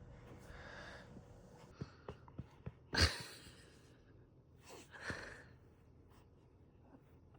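Soft breathy exhales or sighs from a person, three of them with the middle one loudest, between a few small clicks.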